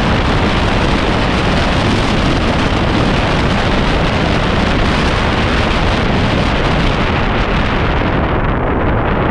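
Wind rushing over the microphone of an action camera on a moving motorbike, a loud steady roar with the bike's running underneath; the highest part of the hiss falls away about eight seconds in.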